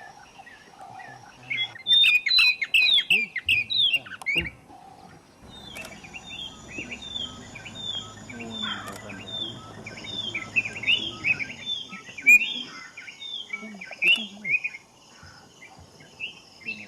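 Birds chirping: short, high, falling chirps, a quick flurry about two seconds in, then a steady run of about two chirps a second.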